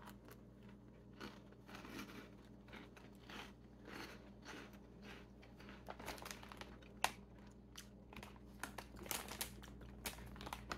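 Faint crunching and chewing of a sugar-coated puffed corn snack (Caramel Maple Corn), a run of small irregular crackles. Toward the end, the crinkle of the foil snack bag being handled joins in.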